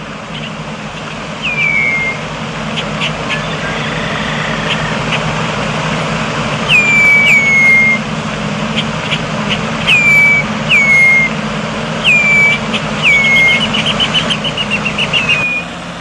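A songbird calling: about seven short whistles that each drop sharply in pitch, then a quick falling trill near the end, over a steady low hum.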